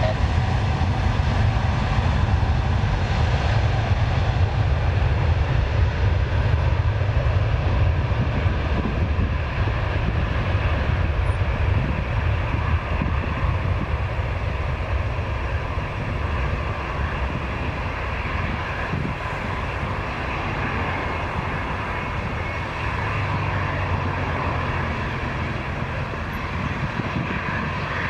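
Jet airliner taking off, its engines at takeoff power: a steady whine over a deep rumble that slowly fades.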